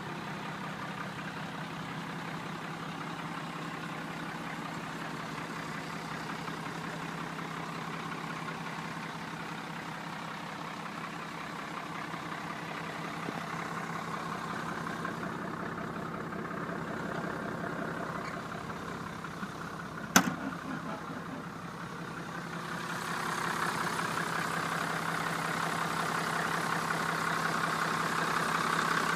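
1991 Ford F600 truck engine idling steadily, with a single sharp click about two-thirds of the way through. The engine sound grows louder near the end.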